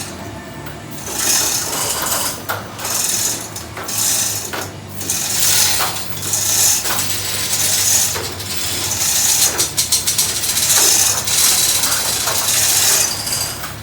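Manual chain hoist being worked to lower a heavy tank, with the chain rattling and clicking through the hoist in a series of pulls about a second long. A steady low hum runs underneath.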